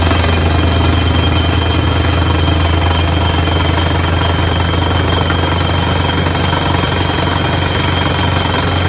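Borewell drilling rig running at work: the rapid, steady hammering of the air-driven down-the-hole drill over the continuous drone of the rig's engine and compressor.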